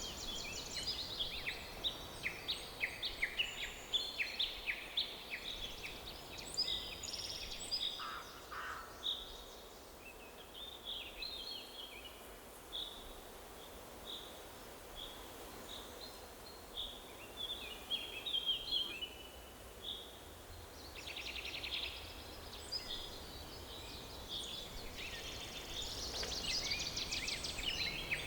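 Forest birdsong: several birds singing and chirping in short, high notes over a faint steady background hiss. The chorus is busy at first, thins out in the middle, and grows busy again near the end.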